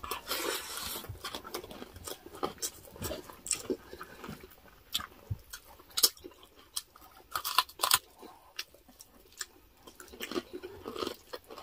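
Close-up chewing and biting into crispy chicharon bagnet, deep-fried pork: irregular crunches and crackles, the sharpest about six and eight seconds in.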